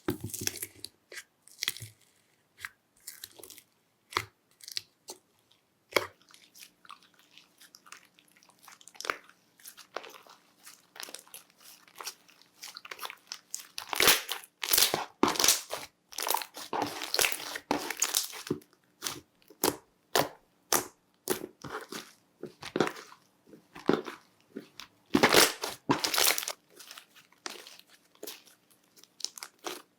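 Slime being squeezed and pressed by hand, giving many sharp crackles and pops. The crackling comes thicker and louder for a few seconds about halfway through and again near the end.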